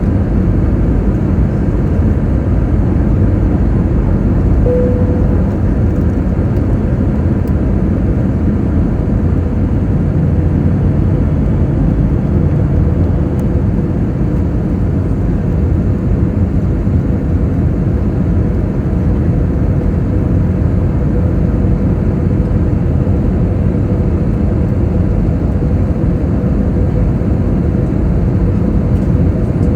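Airbus airliner cabin noise on approach: a steady low rumble of engines and airflow. A faint steady tone comes in about five seconds in.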